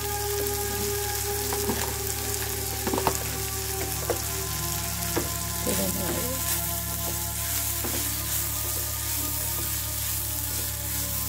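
Mushrooms and onions sizzling in a non-stick wok with spice powders just added, stirred with a spatula that scrapes and taps against the pan now and then.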